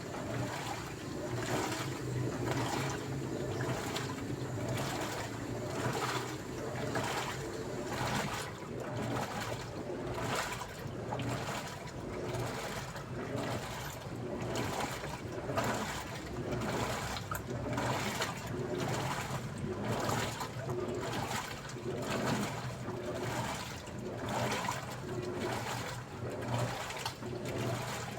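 Daewoo washing machine churning water in its drum: rhythmic sloshing surges a little more than once a second over a steady motor hum.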